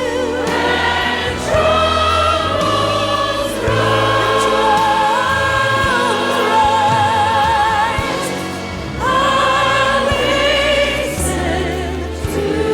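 Worship music: voices singing a hymn-like song in long held notes with vibrato over steady instrumental accompaniment, with new phrases starting about four and nine seconds in.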